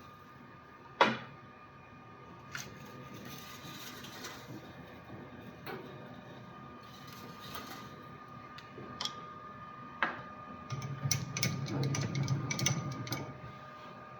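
Machine tool running in a metalworking shop with a steady whine, broken by scattered sharp clicks and knocks of metal. The clicking grows busier, over a louder rumble, from about eleven to thirteen seconds in.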